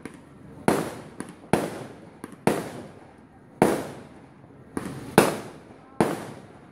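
Fireworks going off in a series of six sharp bangs, roughly a second apart, each dying away over about half a second.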